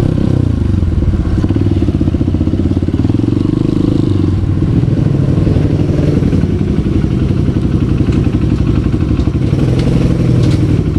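Honda CRF150L's single-cylinder four-stroke engine running as the bike is ridden. The engine note drops over the first second, then holds fairly steady with small rises and dips in revs.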